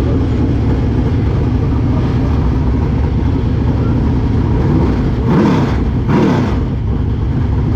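Race car engines running steadily at a dirt track, with two quick revs, the engine note climbing and dropping, about five and six seconds in.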